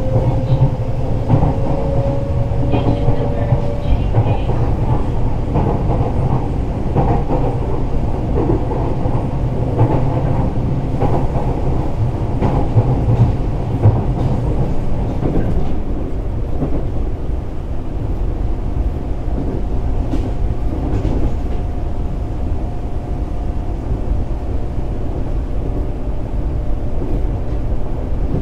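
Fukuoka City Subway 1000N series electric train heard from on board while running: a steady rumble of wheels and running gear with scattered short knocks around the middle. A faint whine rises slightly in pitch during the first few seconds, and a steady hum comes in about two-thirds of the way through.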